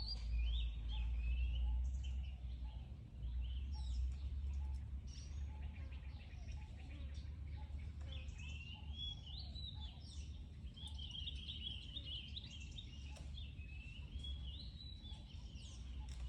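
High, wavering chirping calls in quick runs, thickest in the second half, over a steady low rumble.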